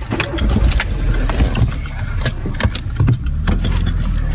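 Car engine running, heard from inside the cabin as a steady low rumble, with scattered clicks and knocks.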